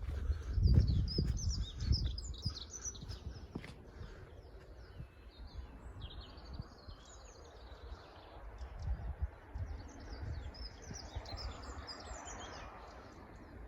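Small songbirds chirping and singing, many short high calls and trills overlapping. Wind buffets the microphone with low rumbling gusts in the first couple of seconds.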